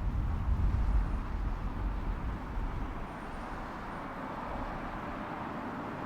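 Jet airliner on final approach rumbling low overhead, loudest in the first couple of seconds and then easing off into a steady roar as it moves away toward the runway.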